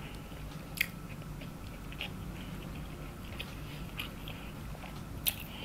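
Close-miked chewing with the mouth closed: soft, wet mouth clicks. A sharper click comes about a second in and another near the end, over a low steady hum.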